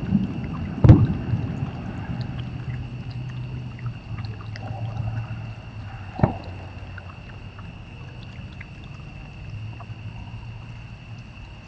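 Fireworks going off: a loud bang about a second in with a rumbling tail, then a fainter bang about six seconds in, over a steady low hum and a steady high-pitched whine.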